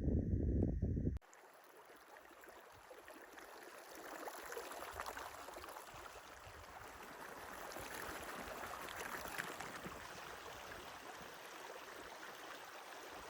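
Low rumbling wind buffet on the microphone for about the first second, which stops abruptly. It gives way to the steady rushing of flowing stream water, which swells a little midway.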